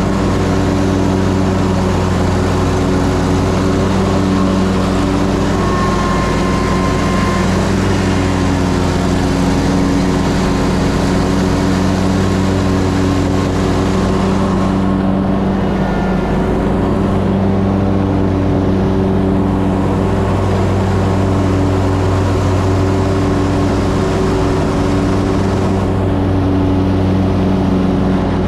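Ferris Z3X zero-turn mower's 37 hp engine running steadily and loud while mowing, its pitch breaking briefly about halfway through.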